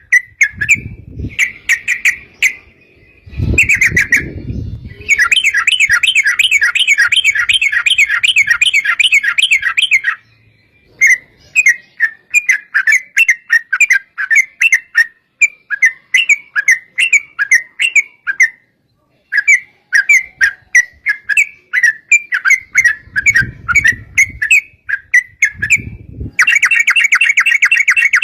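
Yellow-vented bulbul (trucukan) singing bubbly chattering notes. It breaks into fast unbroken trills (the 'ropel') from about five to ten seconds in and again near the end, with shorter chirpy phrases between. Short low rumbles sound underneath a few times.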